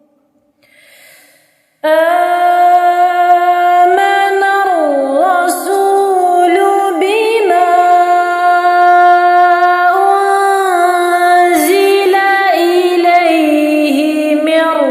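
A woman's voice chanting Quran recitation in melodic tarteel. After about two seconds of near silence it sets in loudly, holding long drawn-out notes with gliding, ornamented turns in pitch.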